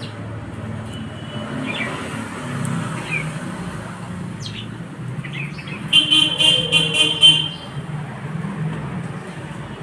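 Short high bird chirps scattered over a steady traffic rumble. About six seconds in comes a loud run of about six quick, high toots, lasting about a second and a half.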